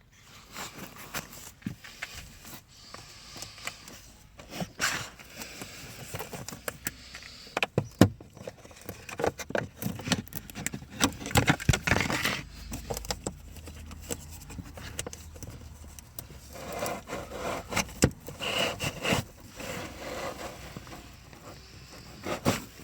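Hands working on plastic interior trim to reach a van's cabin pollen filter: irregular scraping, rubbing and clicking of plastic parts, with a sharp knock about a third of the way in.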